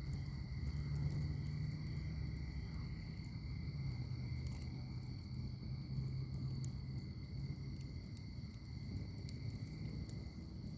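Wood fire in a fire pit crackling, with frequent small sharp pops over a steady low rumble of burning. A continuous high insect trill, like crickets, runs underneath.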